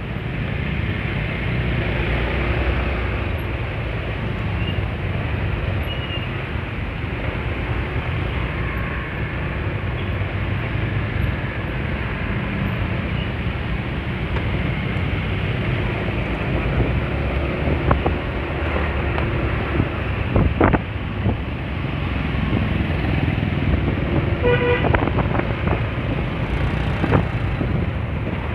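Honda Spacy scooter riding in road traffic: steady engine and wind rush on the microphone, with a short vehicle horn toot near the end.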